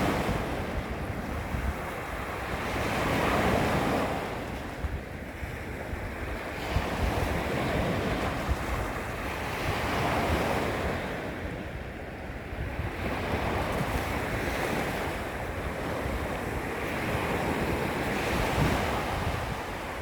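Small waves lapping against a beach shoreline, swelling and easing every few seconds, with wind buffeting the microphone as a steady low rumble.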